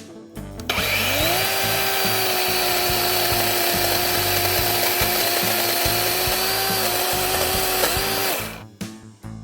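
DeWalt DCCS620 20V XR cordless electric chainsaw spinning up with a rising whine, then running steadily as it cuts through a small branch about 2 inches thick, and winding down about eight and a half seconds in.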